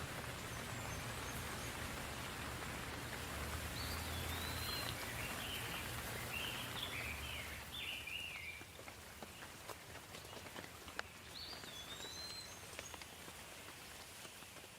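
Soft, steady rain with scattered individual drips, and a bird chirping briefly through it twice. A low rumble sits under the first half and fades out about eight seconds in.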